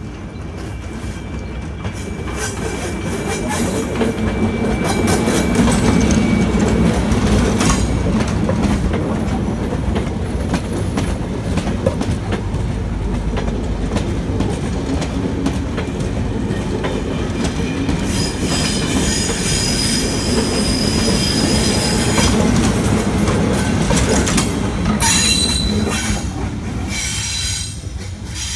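A Network Rail test train hauled by a Class 73 locomotive passes close by. The locomotive's pass comes loudest a few seconds in, then the coaches' wheels click over rail joints and pointwork. In the second half the wheels squeal on the curve with high steady tones, before the sound fades as the train moves away.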